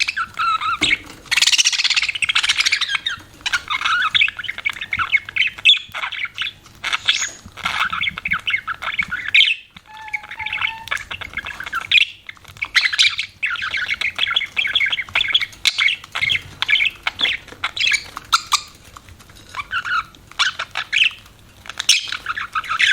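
Pet budgerigars (budgies) chattering and chirping in a busy, continuous warble of rapid calls, with a brief lull about ten seconds in.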